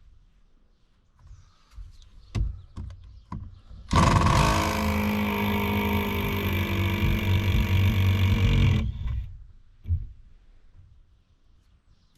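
Power drill with a Torx bit running steadily for about five seconds, backing a long screw out of the boat floor, then stopping; a few light knocks and clicks come before it.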